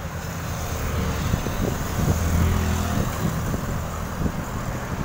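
Road traffic: a motor vehicle's engine hum, growing loudest about two to three seconds in, over a steady rushing noise.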